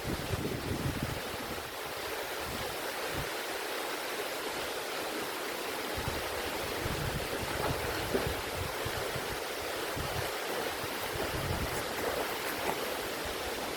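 Steady rushing of a waterfall pouring into a deep pool, with low rumbles of wind on the microphone now and then.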